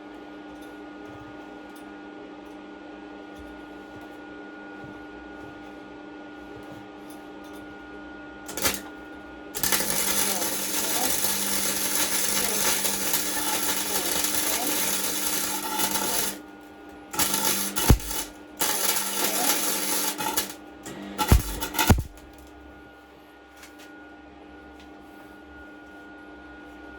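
Electric arc welder crackling as holes in a thin steel pit bike frame are welded up: a brief blip, then one long burst of about seven seconds and three shorter bursts, over a steady electrical hum.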